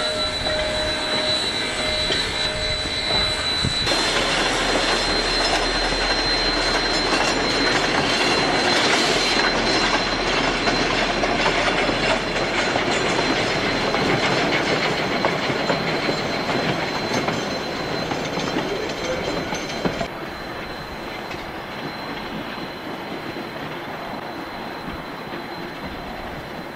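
Rio Grande Southern No. 20, a steam locomotive, hauling passenger coaches along the track: steel wheels running on the rails with a steady high-pitched flange squeal. The sound drops and grows more distant about 20 seconds in.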